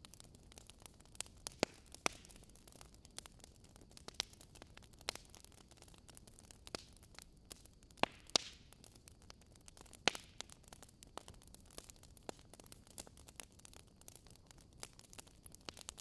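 Faint steady hiss with scattered sharp clicks and crackles at irregular intervals, a few louder ones about two, eight and ten seconds in.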